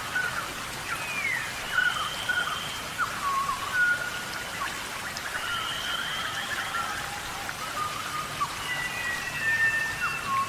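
Steady tropical rainforest rain falling, with repeated animal calls over it: short held whistles and calls that glide down in pitch.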